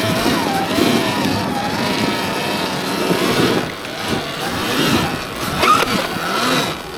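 Surron Ultra Bee electric dirt bike's motor whining under throttle, rising and falling in pitch over and over as the bike struggles for grip in deep snow. The whine cuts off suddenly at the end.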